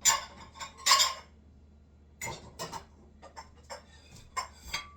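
Kitchen utensils and cookware clinking and knocking: a few sharp clatters near the start and about a second in, then lighter scattered clinks.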